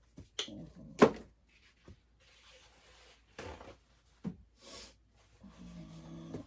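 Painting supplies being handled on a work surface: several sharp clicks and knocks, the loudest about a second in, with short rustles in between and a brief low hum near the end.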